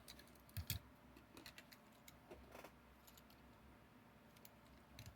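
Faint, scattered light clicks and taps from diecast toy trucks and their small plastic display cases being handled.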